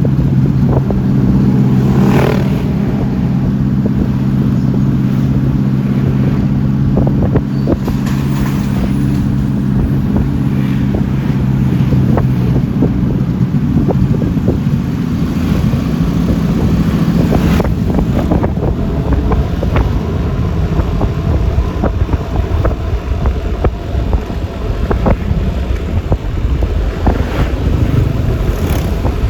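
Yamaha Lexi LX 155 scooter's single-cylinder engine running at cruising speed, with wind rumbling on the microphone and road noise. The engine's steady hum is plain for the first half, then sinks into the wind and traffic noise.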